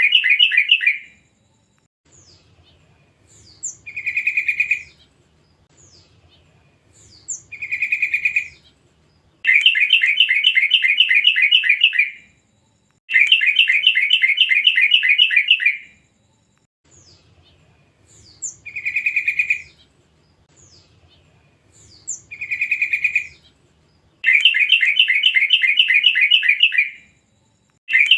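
Young wild yellow-vented bulbuls (trucuk) calling: loud bursts of rapid chattering notes, each about three seconds long, alternating with shorter phrases that open with a few thin high notes. The sequence repeats about every fourteen seconds, as a looped lure call for training captive trucuk to sing.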